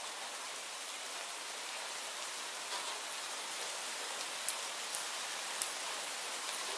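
Steady rain falling, an even hiss, with three sharp ticks a little past the middle.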